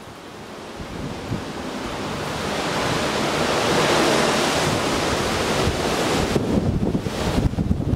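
Typhoon wind gusting hard, swelling over the first few seconds and then buffeting unevenly, with wind rumbling on the microphone.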